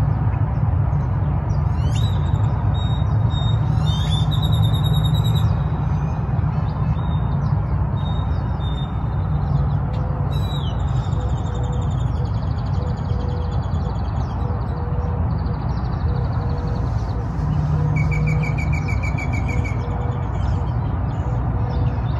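Wild birds chirping and trilling on and off, with a faint low call repeating evenly in the second half, over a steady low rumble.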